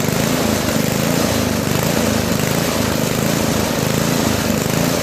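Single-cylinder Tecumseh engine of a Toro 521 two-stage snowblower running steadily on a freshly cleaned carburettor.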